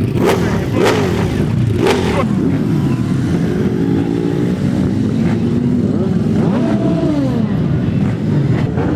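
Motorcycle engines running and revving, the pitch rising and falling several times, with a few sharp cracks in the first two seconds.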